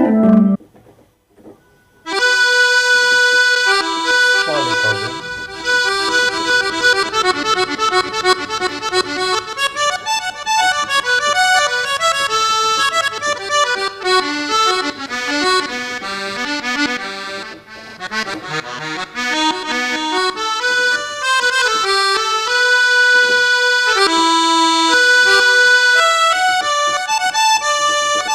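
Roland GW8 arranger keyboard playing a demo melody with quick up-and-down runs on one of its instrument tones, starting after a short pause about two seconds in.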